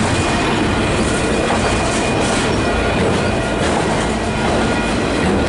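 Long freight train of mostly intermodal cars rolling steadily past, wheels clacking over the rail joints with a faint wheel squeal.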